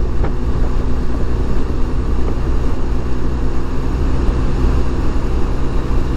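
Adventure motorcycle's engine running at a steady cruising speed, with a steady rush of wind and road noise.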